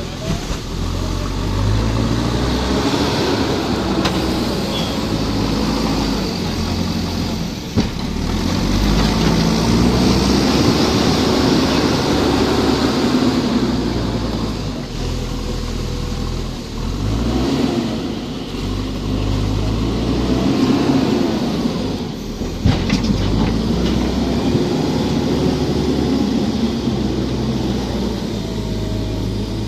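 Heavy machinery engine working under load, its pitch repeatedly rising and falling every few seconds as it revs up and eases off, with two sharp knocks.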